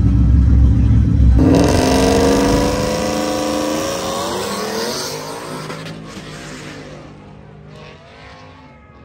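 Drag-racing truck at the start line: a loud, deep engine rumble, then about a second and a half in it launches with a sharp jump in engine note. The pitch climbs through the gears and the sound fades steadily as the truck pulls away down the strip.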